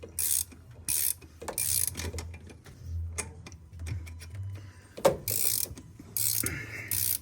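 Ratchet wrench turning the forcing screw of a crank pulley puller on a Ford 2.9 V6, clicking in short bursts on each back-swing with irregular pauses. There is a sharp knock about five seconds in.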